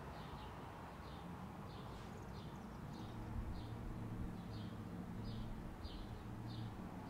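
A small songbird chirping over and over: short, high, falling chirps about twice a second, over a low steady hum.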